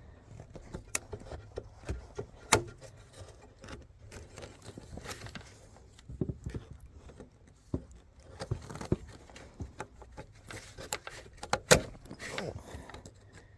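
Hand tools working at a stuck, broken hose clamp on a fuel line fitting: a scattered string of small metallic clicks and knocks, the loudest near the end.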